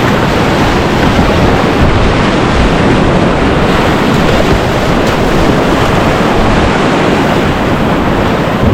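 Loud, steady rush of whitewater in a big-volume river rapid, with wind rumbling on the microphone.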